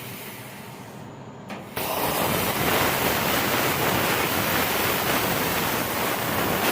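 CNC plasma cutter torch firing and cutting: a loud steady hiss that starts suddenly about two seconds in and cuts off near the end, over a fainter steady hiss.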